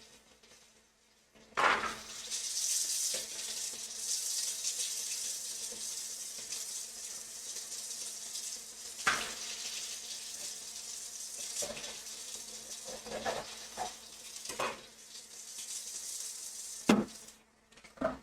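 Kitchen sink tap running in a steady hiss, turned on about a second and a half in and off near the end, with several knocks of items against the sink.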